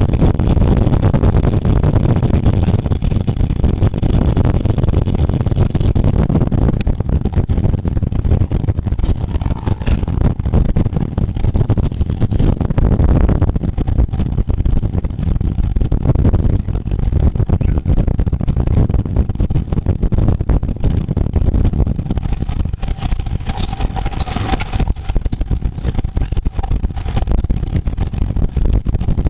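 Loud, steady low rumble of wind buffeting the microphone and road noise from a bicycle moving at racing speed. A brief steady tone joins in about two-thirds of the way through.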